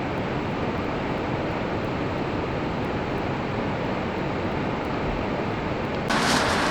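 Mountain river rushing over boulders, a steady noise. About six seconds in it cuts abruptly to a louder, brighter rush.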